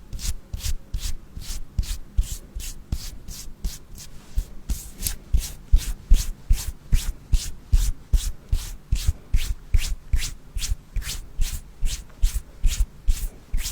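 Rhythmic rubbing strokes on a surface, about three a second, each a short scratchy swish with a soft low thump, easing briefly about four seconds in.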